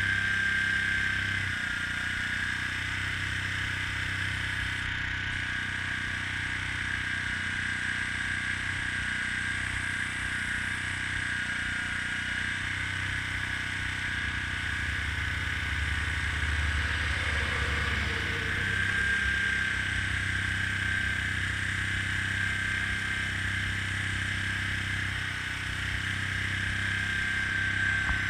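Airbrush compressor running steadily: a low hum under a high, slightly wavering whine.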